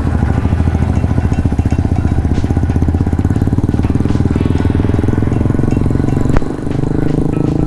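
Cruiser motorcycle engine running under way with a steady rapid pulse. About six seconds in there is a sharp knock, after which the engine note dips briefly and settles at a different pitch.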